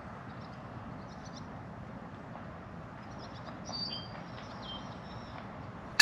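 Small birds giving several short, high chirps, most of them in the second half, over a steady outdoor hiss.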